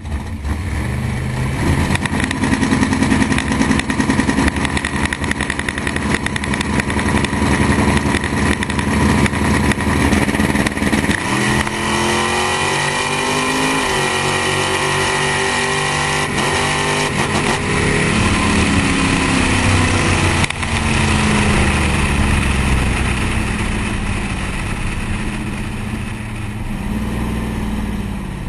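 468 cubic-inch big-block Chevy V8 of a drag car running hard at the line, then launching about 11 seconds in with revs climbing. The Powerglide shifts into second once, a few seconds later, and the engine is held at high revs until the throttle is lifted near 20 seconds. The revs then fall away as the car coasts down.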